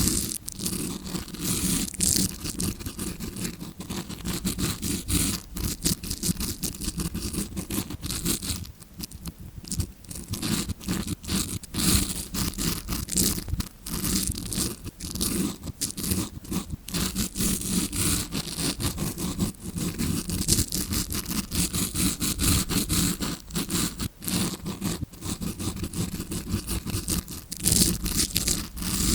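Close-up, rapid scratching and scraping strokes of a tawashi, a stiff-bristled scrubbing brush, rubbed against the microphone to imitate ear cleaning heard from inside the ear canal. The strokes run densely, with a brief lull about nine seconds in.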